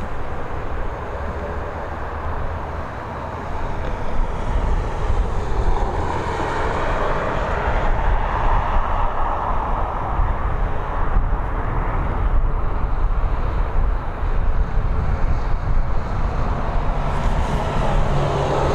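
Jet noise from a Boeing 737-800 airliner's engines on its landing run, a steady rushing sound over a low rumble that grows louder about four seconds in and stays up.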